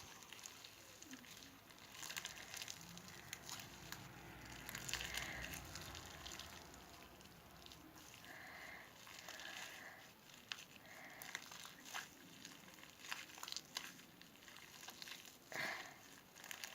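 Faint sticky clicks and crackles of hands kneading wet, overactivated homemade slime.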